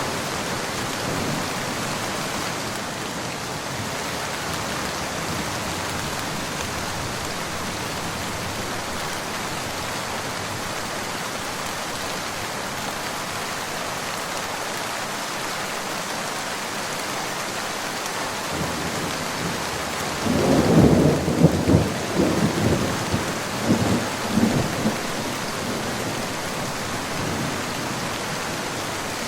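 Steady rain falling, with a rumble of thunder rising out of it about two-thirds of the way through and rolling for a few seconds before fading back into the rain.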